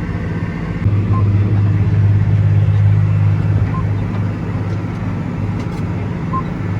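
Tractor engine running steadily under load while pulling a corn planter, its low drone swelling louder for a couple of seconds about a second in. Faint short beeps repeat about every two and a half seconds.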